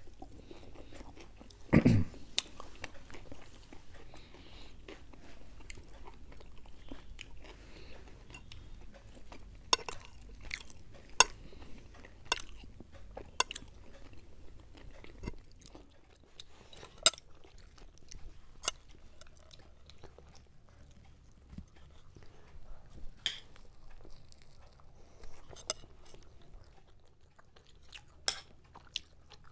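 Close-up chewing and crunching of fried food, with scattered sharp clinks and scrapes of forks and spoons against plates and a louder knock about two seconds in.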